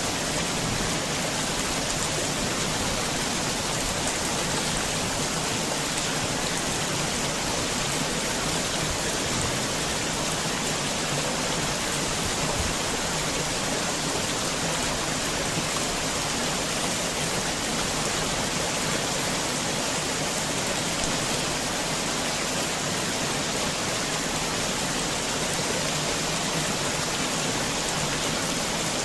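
Heavy rain falling steadily, an even unbroken hiss of many drops with no single drop or thunderclap standing out.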